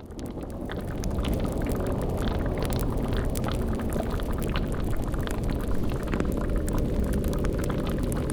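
Bubbling cauldron and crackling fire over a deep low rumble, fading in over the first second and then holding steady, with many small crackles throughout.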